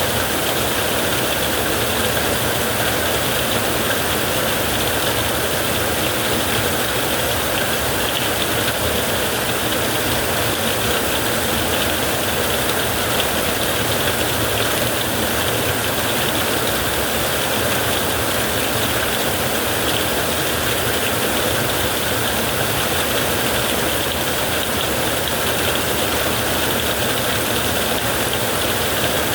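Heavy rain falling steadily on a tent, an even, unbroken hiss with no thunder claps standing out.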